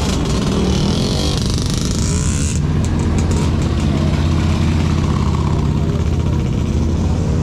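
Jaguar car's engine revving as it pulls away and accelerates, the sound rising for about two and a half seconds and then breaking off. After that, a vehicle engine runs steadily at low revs.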